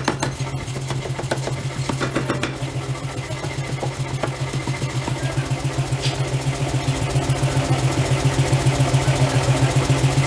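Heavy forging machinery running: a steady low hum with a fast, even pulse that grows louder toward the end.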